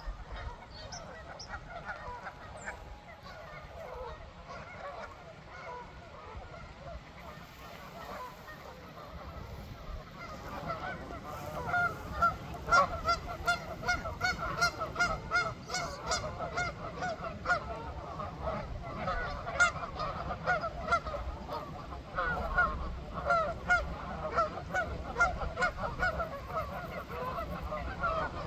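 A large flock of ducks calling: scattered quacks at first, then from about ten seconds in a dense chorus of rapid, repeated loud quacks.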